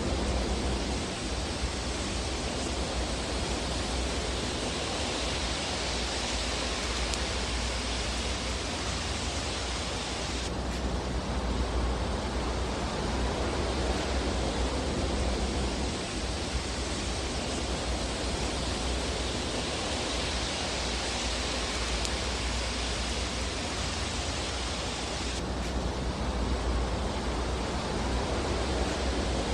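Fireplace fire sound: a steady, even rushing hiss with no distinct crackles standing out. Its tone shifts abruptly about ten seconds in and again near the end.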